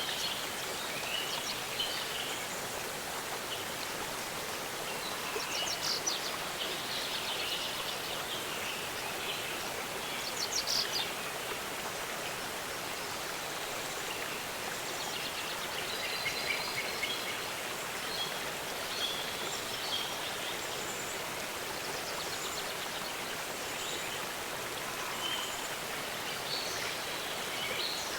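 Waterfall rushing steadily, with small birds chirping and trilling over it now and then.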